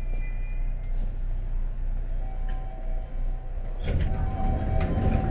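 Seibu 2000 series commuter train car with a steady low rumble, then a few steady tones from about two seconds in. About four seconds in comes a sudden louder rush with knocks, typical of the sliding doors opening at a station stop.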